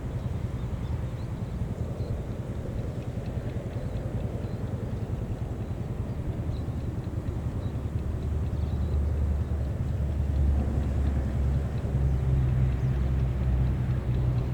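GE-built CC 203 diesel-electric locomotive's engine running with a low rumble, which grows louder about halfway through.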